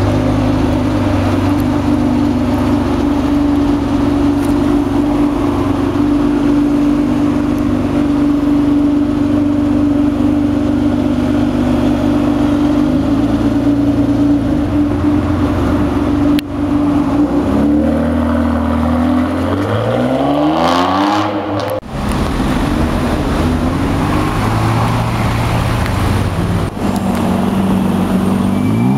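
Supercar engines in a run of short clips: first a steady engine drone, then one car accelerating hard, its engine pitch climbing steeply, then other cars running and revving after abrupt cuts.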